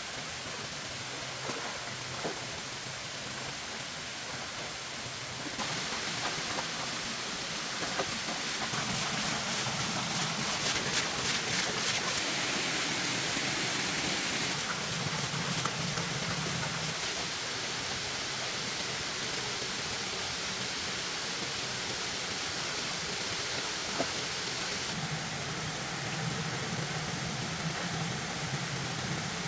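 Steady rain, an even hiss with a few faint taps, its level and tone shifting abruptly three times.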